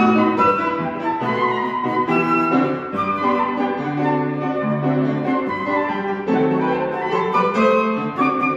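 Flute playing a slow melody of held notes over piano accompaniment.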